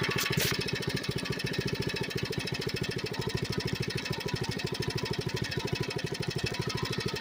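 Coleman mini bike's single-cylinder engine running at a steady speed, its firing pulses even and unchanging, with a brief hiss about a quarter of a second in.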